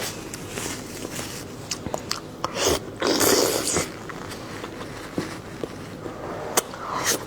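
A person eating close to the microphone: chewing and biting with small clicks, and a louder rush of noise lasting about a second, about three seconds in.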